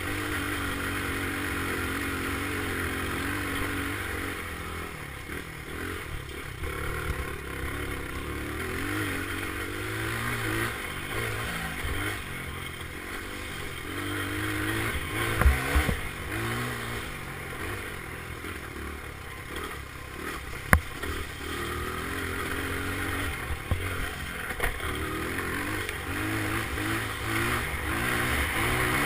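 Dirt bike engine revving up and down as it is ridden around a dirt track, with a few sharp knocks and clatters along the way.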